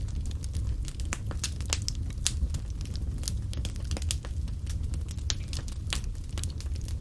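Wood fire in a fireplace crackling: frequent, irregular sharp snaps and pops over a steady low rumble of the flames.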